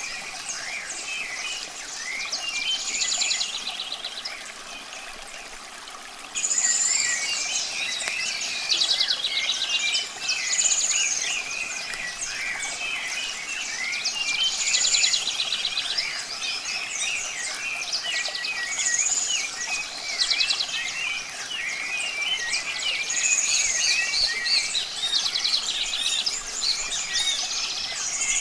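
Several birds singing in a dense chorus of chirps. About every four seconds one bird repeats a phrase: a high arched whistle followed by a rapid trill. The chorus gets suddenly louder about six seconds in.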